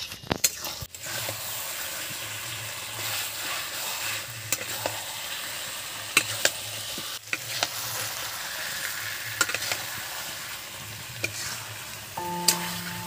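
Chicken pieces sizzling in oil and spice masala as they are stirred and sautéed (kosha) in a pan, with a utensil now and then scraping and knocking against the pan. A steady musical tone comes in near the end.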